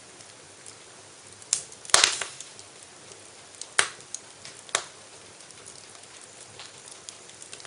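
Wood fire in a fireplace crackling: a low steady hiss broken by a few sharp pops, the loudest about two seconds in and others near two, four and five seconds.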